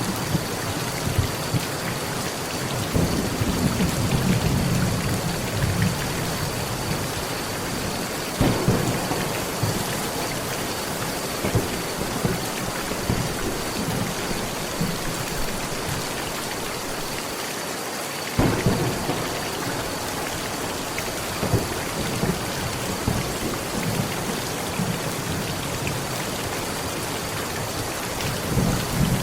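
Steady heavy rain drumming on a metal roof, with thunder: a rolling rumble a few seconds in, then sharp thunderclaps at about eight and a half and eighteen seconds in, each trailing off into lower rumbles.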